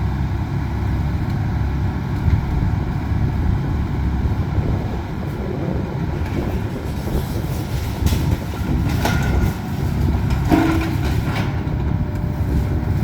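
Excavator's diesel engine running steadily, a constant low rumble, with a few short knocks and clatters about two-thirds of the way through.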